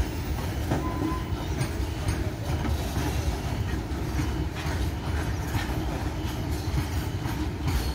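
Freight train of covered goods wagons rolling past close by: a steady low rumble with the clickety-clack of wheels on the rails.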